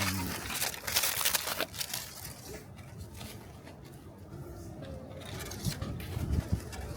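Aluminium foil and cooking-paper wrapping crinkling and tearing as a baked sweet potato is unwrapped, densest in the first two seconds, then lighter rustles.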